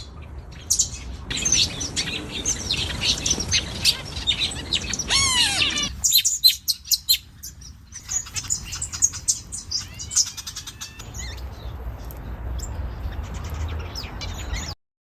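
Several birds chirping and singing, with many short chirps and sweeping whistles overlapping; the sound changes abruptly a few times and stops shortly before the end.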